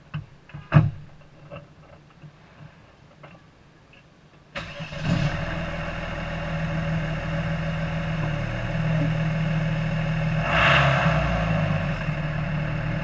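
A car door shuts with a thump a little under a second in, among a few light clicks. About four and a half seconds in, the car's engine starts and settles into a steady idle, which swells briefly near the end.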